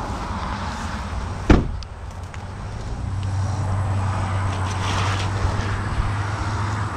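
A truck door slams shut once, sharply, about a second and a half in. Steady highway traffic noise runs underneath, with a low hum setting in about halfway through.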